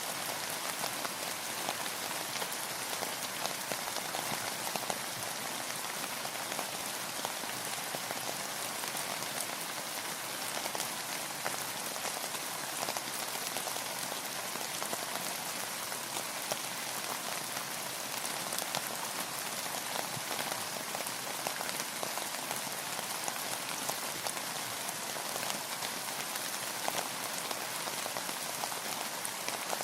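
Steady rain falling, a dense, even hiss with many small drop ticks spattering on a surface.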